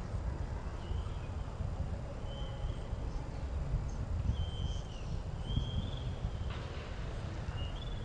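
Several short, thin, high whistled bird calls, spaced a second or two apart, over a steady low rumble.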